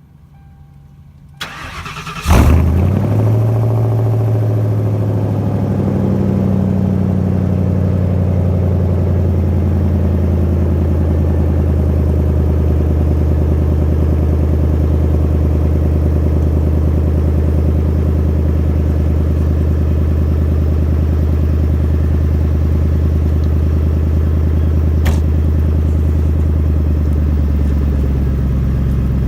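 A 2000 Mercury Grand Marquis's 4.6-litre V8, mufflers deleted, starting from cold. About two seconds in, a brief crank ends as the engine catches loudly. It then runs a fast cold idle that eases down over the next several seconds and settles into a steady idle.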